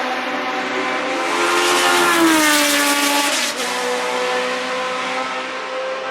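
Historic Formula One car's engine passing at speed, loudest about two seconds in, its pitch falling away and then jumping higher again at a gear change about three and a half seconds in.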